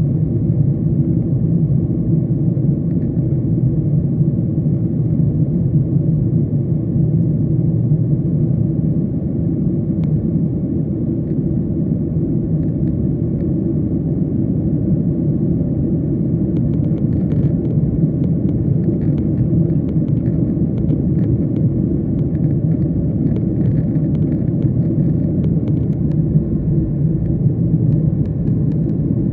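Steady low rumble of jet engines and rushing air heard inside an airliner cabin in flight. Faint light clicks and rattles come in over it from about halfway through.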